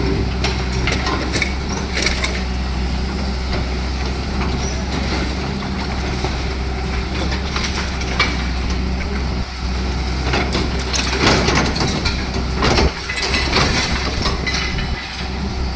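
A heavy machine's engine running with a steady low drone, under scattered cracks, clatters and crunches of breaking material, busiest past the middle.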